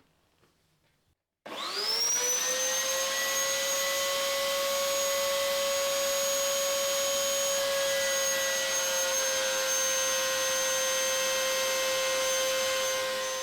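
Electric wood router starting up about a second and a half in, its whine rising quickly to a steady high pitch, then running steadily while it trims a plywood body flush to the template. It switches off near the end and winds down.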